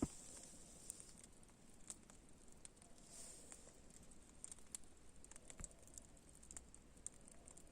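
Near silence, with a few faint clicks scattered irregularly.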